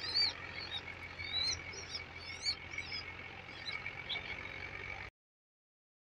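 Small birds chirping in quick, short notes, over a steady high-pitched drone; all sound cuts off abruptly about five seconds in.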